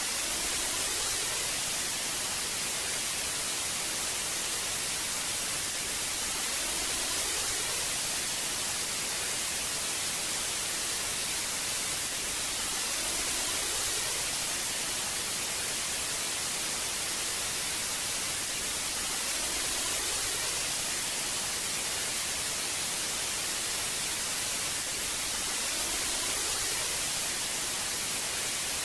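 Old television static: a steady hiss, strongest in the treble, that swells gently about every six and a half seconds.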